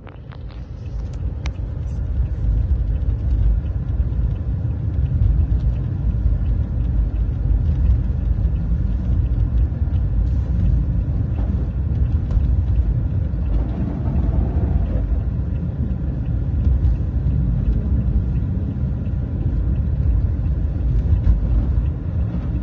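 A loud, continuous low rumble, with a few faint ticks in the first couple of seconds.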